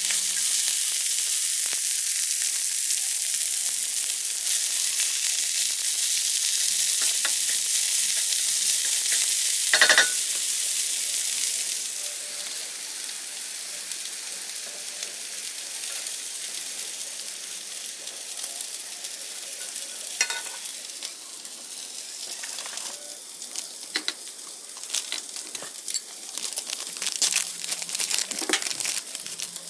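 Corn kernels frying in a skillet with a steady, loud sizzle and a sharp knock about ten seconds in. The sizzle then drops to a quieter hiss, and near the end a spoon clicks and scrapes in a glass mixing bowl.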